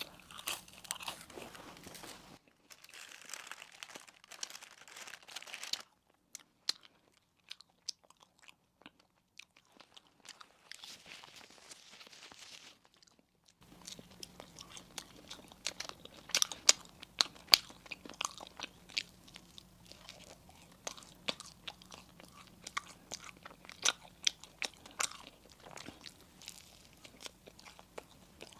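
Close-miked biting and chewing of crunchy sweets: many sharp crunches in quick succession. They go much quieter from about two seconds in, then return thicker and louder about fourteen seconds in.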